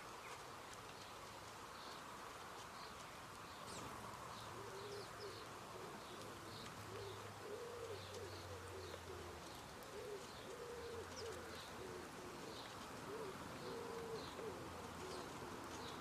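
A bird cooing in a low, repeated phrase, starting about four seconds in and going on through most of the rest, over short high chirps of small garden birds.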